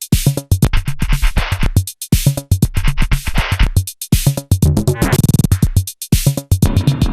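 Electronic drum machine and synth groove switched between effects modules in time with the beat: choppy, glitchy hits with sudden dropouts and a fast stuttering repeat about five seconds in.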